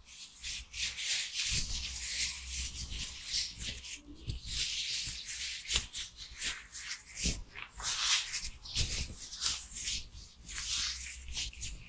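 Rubber gloves rubbed and handled close to the microphone: a continuous run of rough, uneven rubbing strokes with a few soft low thuds.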